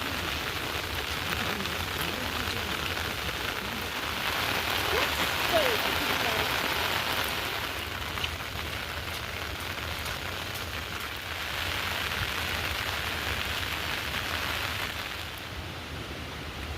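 Heavy rain falling steadily, a dense hiss that swells and eases every few seconds, with a faint short call about five seconds in.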